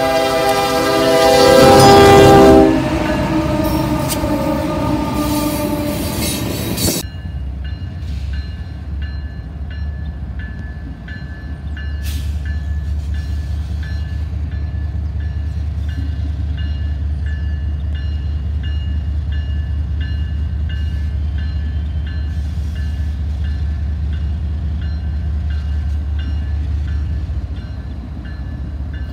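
Union Pacific diesel freight locomotive sounding its air horn, a loud steady chord that cuts off about 2.5 s in, followed by the rush of the locomotives passing close. After a sudden change about 7 s in, a long freight train rolls past with a steady low rumble and faint repeated ringing tones of a crossing signal.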